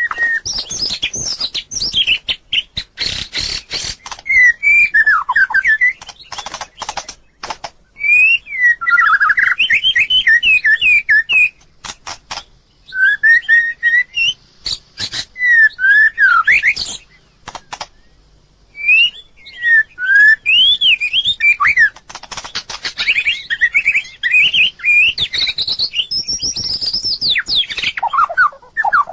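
White-rumped shama singing: a run of varied whistled phrases with quick rising and falling sweeps, broken by short pauses and mixed with short sharp clicks.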